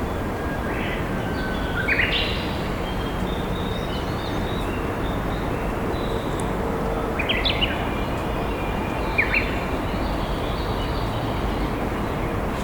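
Wild birds singing in short phrases, three times, the first opening with a long held whistle, over the steady rush of a flowing river.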